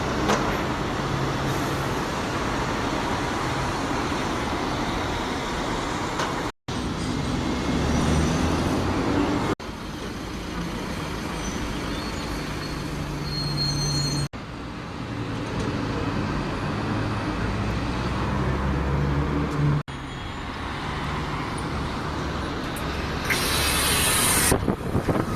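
Large road and rail vehicles running, heard in several short clips that cut abruptly from one to the next, each a steady low engine hum with traffic noise. Near the end comes a loud hiss of released air, typical of a bus's air brakes or doors.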